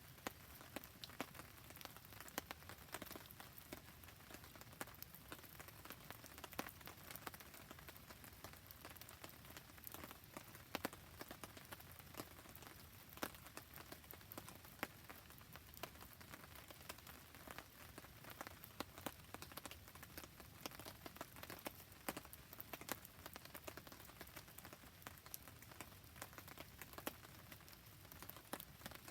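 Rain falling and a wood fire crackling: a soft, steady hiss dotted with many small, irregular ticks and pops.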